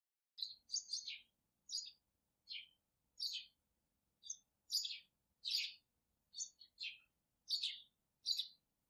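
A songbird chirping: a run of short, high chirps, most sliding down in pitch, about one to two a second with silence between them.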